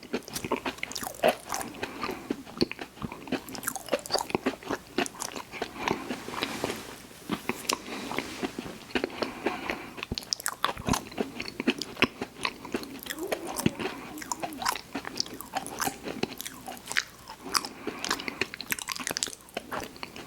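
Close-miked chewing and biting of sweets: a continuous run of sharp, wet mouth clicks and smacks.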